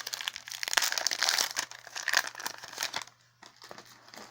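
Foil trading-card booster pack wrapper crinkling as it is handled: a dense crackle for about three seconds, then a few lighter rustles near the end.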